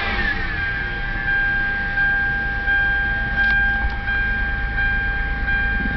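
2007 Hyundai Sonata V6 engine running with a steady high-pitched whine from its single-belt accessory drive, its pitch falling back with the revs in the first half second and then holding steady. The whine comes from a failing idler pulley.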